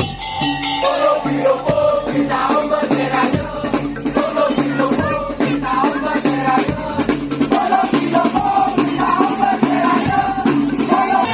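Music played by a band: a wavering melody line over steady, repeating drum and rattle-like percussion.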